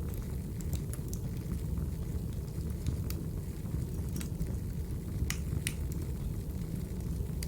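Wood fire crackling: a steady low rumble of burning logs with irregular sharp pops and snaps, a few louder ones about three to five seconds in.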